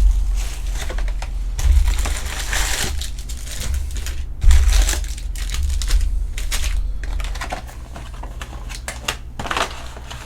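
Baseball trading cards being handled and flipped through: a run of irregular quick clicks and rustles. A steady low hum runs underneath.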